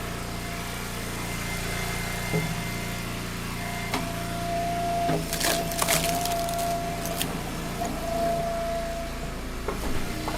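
Engine-driven log splitter running steadily while its wedge drives through a round. About five seconds in, the wood cracks and splinters several times as it splits apart, while a steady whine runs through the middle of the push.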